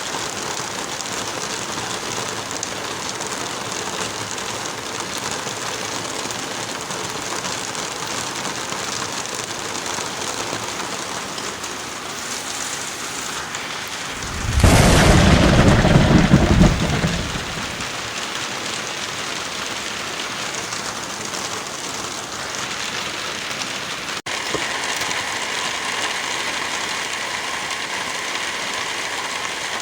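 Heavy rain falling steadily, with one loud clap of thunder about halfway through that lasts about three seconds. Later the rain breaks off for an instant and comes back with a slightly different sound.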